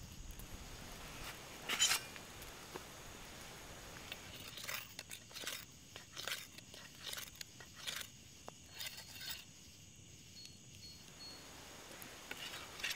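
Khukuri blade being sharpened on a stone: one scrape about two seconds in, then a run of short scraping strokes, about two a second, for some five seconds.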